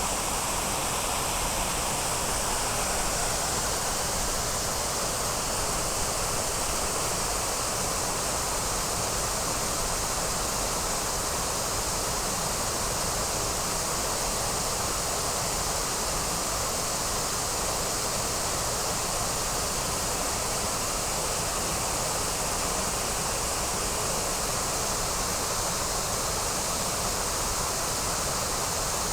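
Waterfall running: an even, unbroken rush of falling water.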